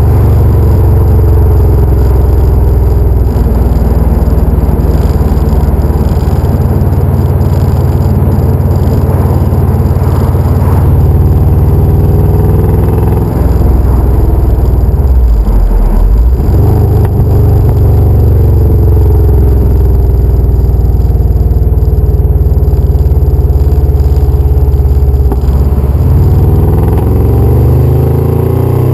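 Subaru EJ25D flat-four engine breathing through an unequal-length header, high-flow cat and STi muffler, running steadily under way. The note shifts about halfway through, then the revs climb near the end.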